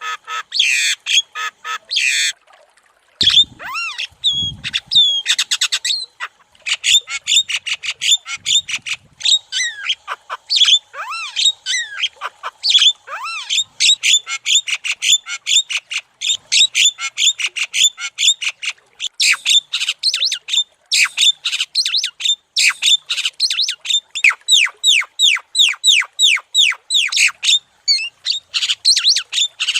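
Javan myna (jalak kebo) singing vigorously: a fast, almost unbroken run of harsh squawks and sweeping whistled chirps, with a short pause near the start.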